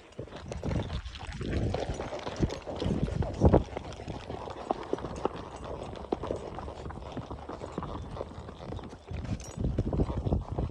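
Horse hooves clip-clopping: an irregular run of hoof strikes, with one louder knock about three and a half seconds in.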